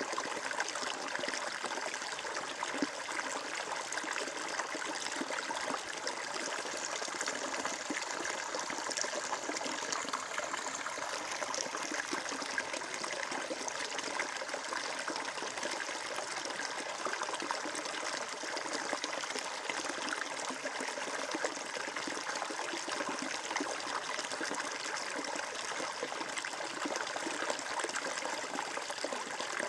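Water flowing and trickling in a steady, even rush.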